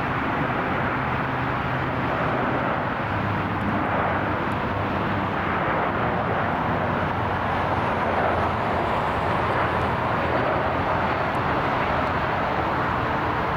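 Jet airliner engines running, a steady rushing noise with a few faint low hums, swelling slightly about eight seconds in.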